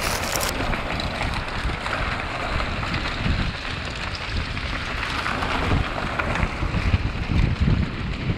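Wind rushing over the camera microphone during a fast mountain-bike descent, with the tyres and bike knocking irregularly over a rocky dirt trail.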